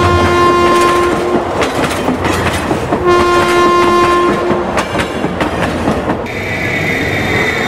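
Passenger train passing with two long horn blasts about three seconds apart, over the clickety-clack of wheels running over rail joints.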